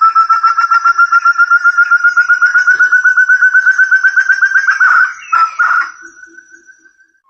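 Forest quail (burung terung) lure call: a fast run of clear whistled notes, about a dozen a second and rising slightly in pitch, that breaks off about five seconds in and trails away.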